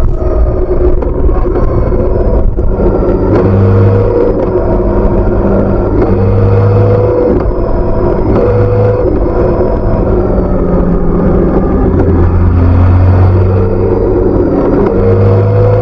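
BMW K1600B's stock exhaust on its inline-six engine while riding: the engine note climbs under acceleration several times, dropping back between climbs as it shifts or eases off.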